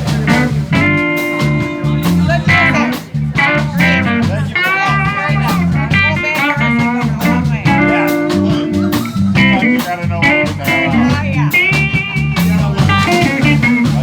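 Live blues band playing an instrumental passage: a lead guitar plays a melodic solo line with bent notes over a walking bass line and drums.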